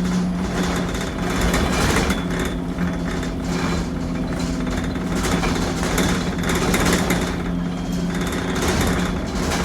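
Bus engine running under way, heard from the rear seats beside it: a loud steady drone with rattling and a thin high squeal that makes it sound awful. The engine sounds abnormally rough, with a smell of smoke at the back.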